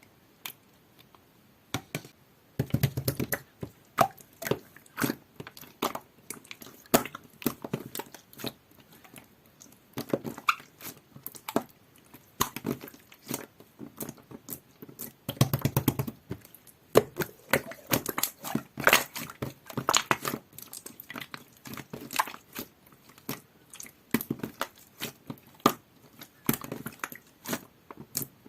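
Clear jelly-like slime with white glitter being squished and pressed by hand: a string of sticky clicks and small pops, with a few stretches of quicker squishing.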